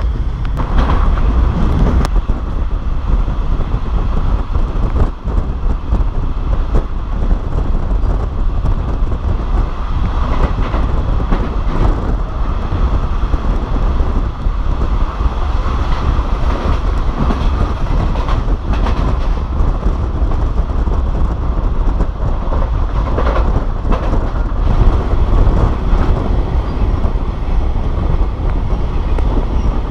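Passenger train running along the track, heard from outside the carriage: a steady, loud rush of rolling wheels and wind, with a few irregular clicks of the wheels over the rails.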